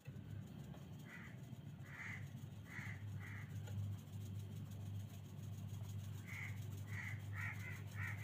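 Bird calls: a short call repeated four times in the first few seconds, then a quicker run of calls near the end, over a steady low hum.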